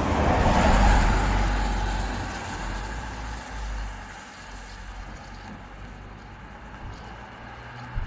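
A road vehicle passing by: a noisy rush with a low rumble that is loudest about a second in, then fades away over the next few seconds.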